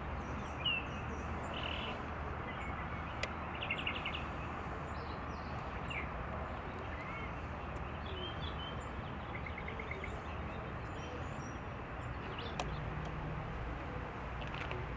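Small birds chirping now and then over a steady outdoor background hiss, with a few light clicks.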